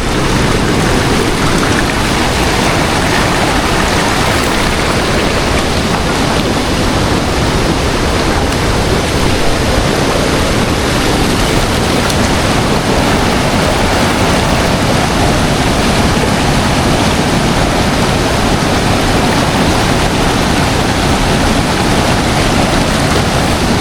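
Rushing river water, a steady loud noise.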